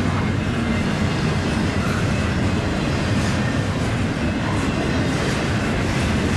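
Double-stack intermodal freight train's well cars rolling past close by: a steady rumble of steel wheels on the rails with a few faint clicks.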